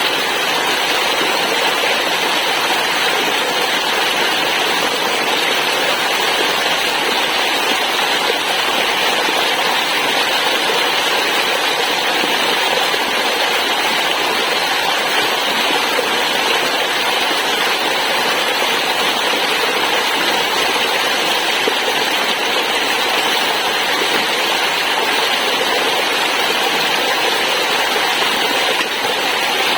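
Waterfall's steady rush of falling water, an even hiss that does not change.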